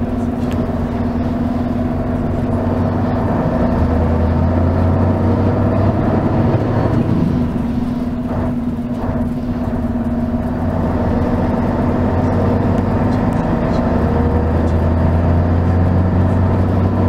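V8 diesel engine of a Mercedes-Benz O 403 SHD coach heard from inside the bus, running steadily under way. It pulls harder twice, easing off about halfway through before building again near the end.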